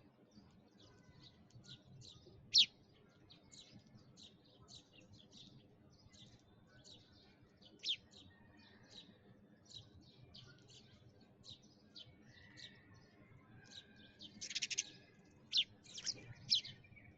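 Small birds chirping: a steady run of short, high chirps, several a second, with a few louder single chirps and a dense flurry of calls near the end.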